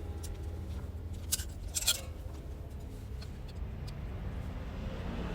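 Light clinks of metal parts or tools being handled, two sharper ones just over a second in and near two seconds, over a steady low hum.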